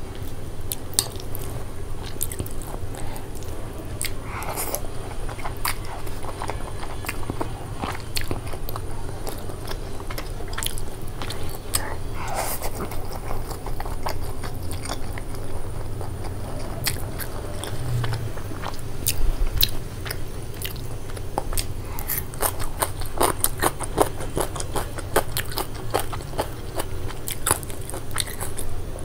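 Close-miked eating of stir-fried black bean noodles: chewing and slurping, with many sharp wet mouth clicks and the odd click of metal chopsticks on the plate.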